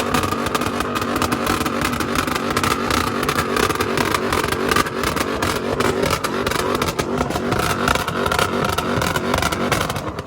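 Car engine revved up and held at high revs, with a dense rapid crackle, dropping off near the end.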